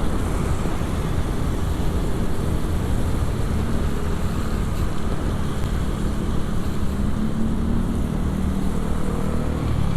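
Motorcycle riding on the road: steady wind rush on the camera microphone over the running engine and tyre noise, with a faint engine tone coming up over the last few seconds.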